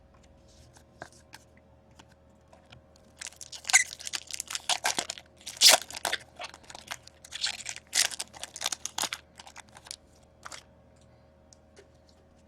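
Foil wrapper of a trading-card pack being torn open and crinkled, in a run of crackly tearing and crumpling noises lasting several seconds.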